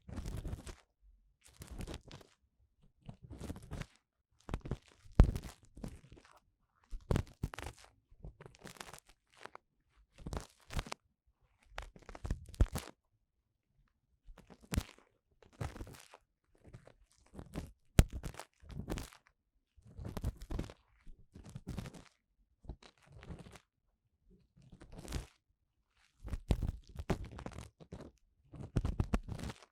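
An ear-cleaning tool scraping and rubbing inside the ear of a 3Dio binaural microphone: short, close scratching strokes, about one or two a second, with brief pauses between them.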